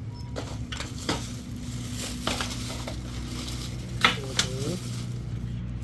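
A series of sharp clicks and knocks, like hard objects being handled and set down, over a steady low hum; the loudest knock comes about four seconds in, followed by a brief squeak.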